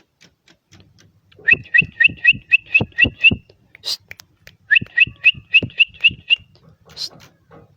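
Bar-winged prinia (ciblek) singing: two runs of about eight quick, sharp repeated notes, each run lasting under two seconds, with a few single clicks in between.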